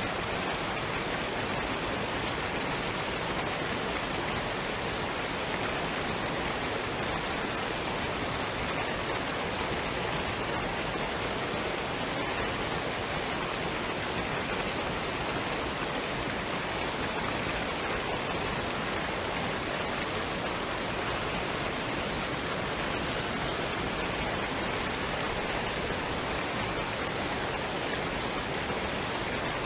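Waterfall and stream water running in a steady, even rush with no change.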